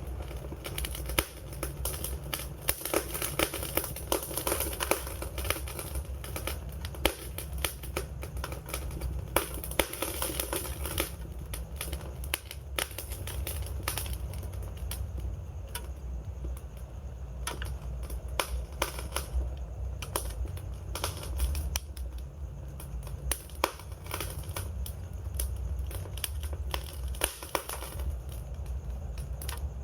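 Wood fire crackling and popping, with many irregular sharp snaps over a steady low rumble of burning.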